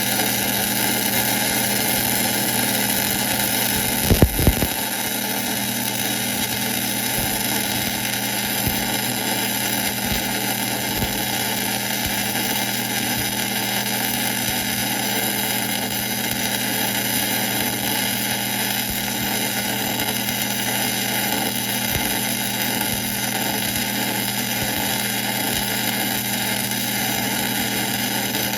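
1966 LeBlond geared-head lathe running steadily, with a short cluster of knocks about four seconds in.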